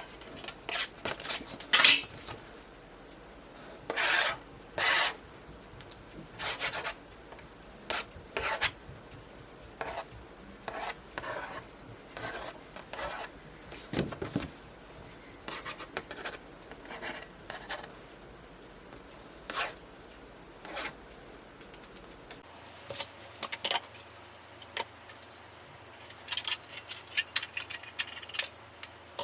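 Short rubbing and scraping strokes of metal, one after another at irregular intervals, from hand work on steel wire and stainless parts.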